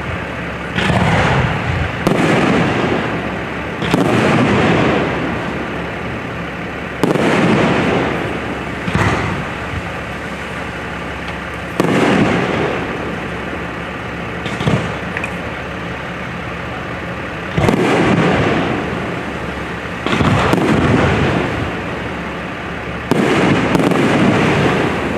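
Fireworks display: shells bursting one after another with sudden booms about every two to three seconds. Each boom is followed by a rolling echo that fades over a second or two.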